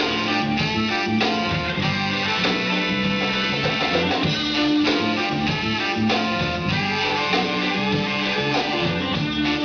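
Live band playing an instrumental passage with guitar, drum kit and a horn-like lead.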